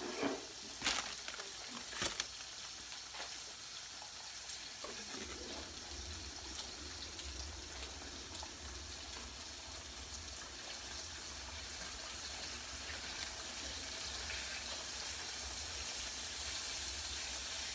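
Pork chops sizzling as they pan-sear in olive oil in a skillet: a steady hiss, with two sharp clicks about one and two seconds in. A low hum joins about five seconds in.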